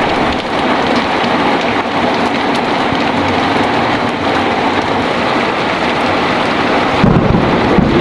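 Heavy rain falling steadily, with a low rumble of thunder rolling in near the end.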